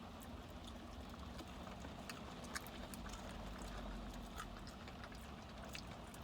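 Faint, scattered small clicks and crunches of people eating crispy fried chicken, over a low steady room hum.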